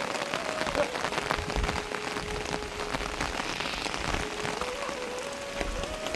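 Steady rain falling, with many separate drop hits throughout.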